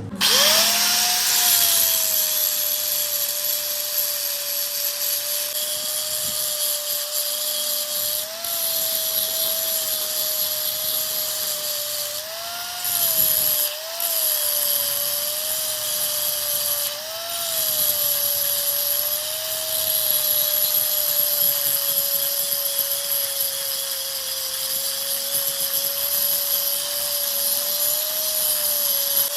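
Electric power tool starting up and running steadily under load, with a high hiss. Its motor pitch sags and briefly rises again several times as the load comes and goes.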